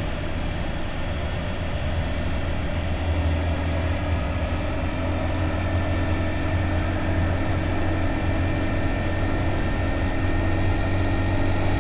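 Motorbike engine running steadily under way, a low drone that grows slightly louder toward the end.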